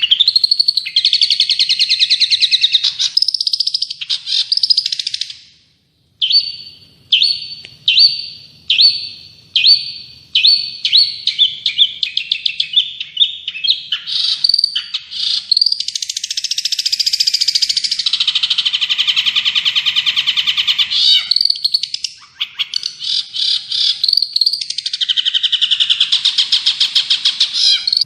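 Songbird song: fast chirping and warbling, then a short pause and a run of separate high chirps that come closer and closer together, followed by long continuous trills.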